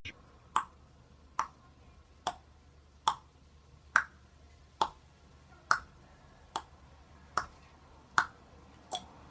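A sharp click repeating at an even pace, a little more than one a second, eleven times.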